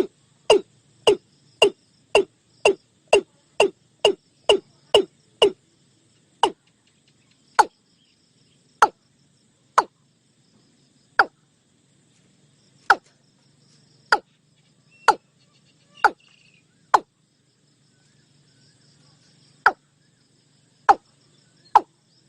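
Watercock calling: a series of short, sharp notes, each dropping quickly in pitch, about two a second at first, then slowing to one every second or so with a pause before the end. A faint high insect buzz runs underneath.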